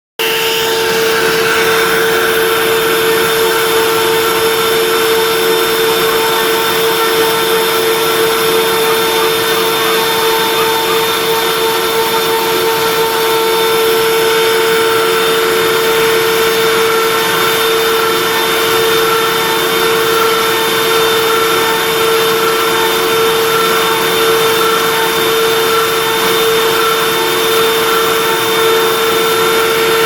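A CNC router's spindle running steadily at constant speed, a loud even whine over a hiss; it cuts in abruptly at the start.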